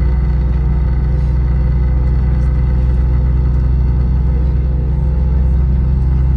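Steady low cabin drone of an Airbus A321 on the ground with its engines running, with a constant hum and several steady tones above it.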